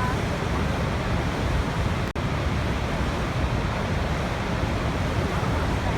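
Waterfall: a steady rush of falling water, with a momentary dropout about two seconds in.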